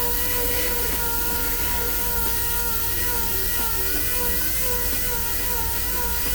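Power tool motor running steadily, its pitch wavering slightly as the load changes.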